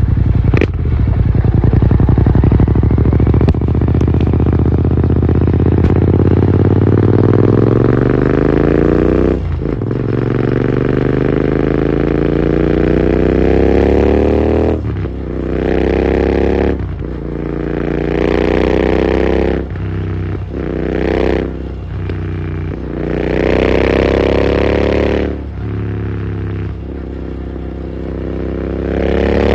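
GT650 650 cc twin-cylinder motorcycle engine through an aftermarket AEW exhaust, revved up slowly and held, then blipped repeatedly, each rise in pitch falling back to a steady idle between blips.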